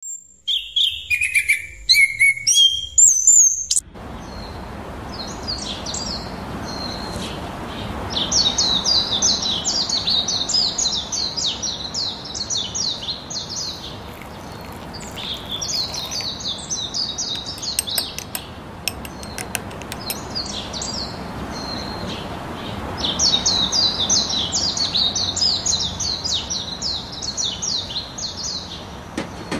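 Small birds chirping in quick runs of high notes that come back in bouts every few seconds over a steady hiss. The first few seconds hold louder separate whistles that glide up and down.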